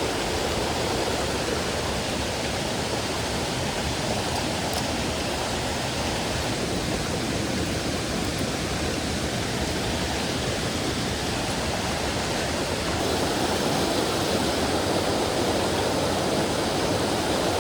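Steady rushing of a mountain stream's flowing water, growing a little louder about two-thirds of the way through.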